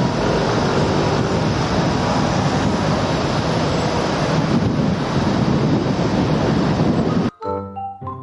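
Steady rushing noise of a moving vehicle with wind on the microphone, cutting off abruptly about seven seconds in. A chiming melody starts right after.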